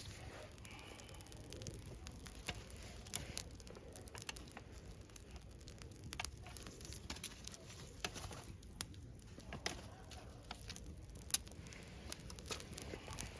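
Wood campfire crackling: irregular sharp pops and snaps over a low rumble of the burning wood, with one louder pop late on.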